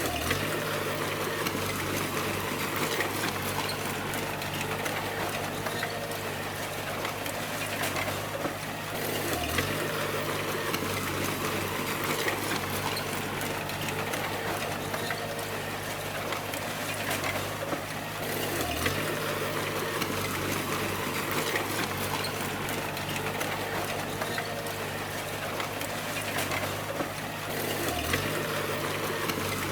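Bulldozer diesel engine running steadily under load, with a clattering, hissing noise over it. The engine pitch dips briefly about every nine seconds.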